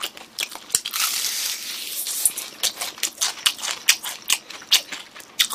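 Crispy fried chicken being chewed close to the microphone: a quick, irregular run of crisp crunches, densest about a second in.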